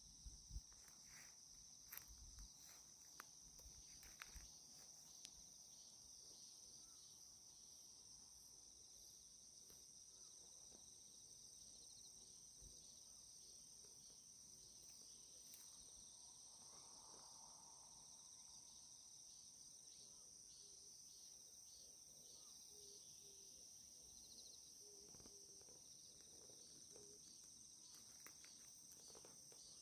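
Faint, steady, high-pitched chorus of insects chirring, with a few soft knocks in the first five seconds.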